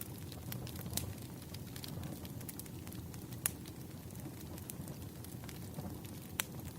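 Wood fire crackling in a fireplace: a low steady rumble with scattered sharp pops, the loudest about three and a half seconds in and another near the end.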